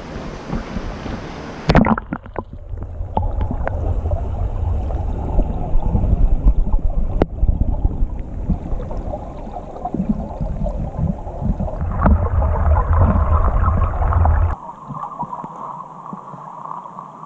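Rushing river water with a heavy rumble of wind on the microphone. The sound changes abruptly about two seconds in, and again twice near the end.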